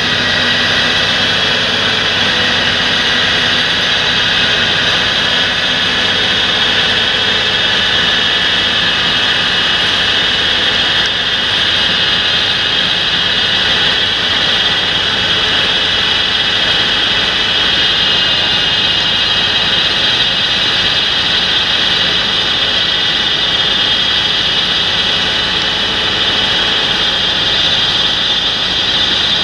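Large John Deere tractor running steadily, with a high whine over the engine note.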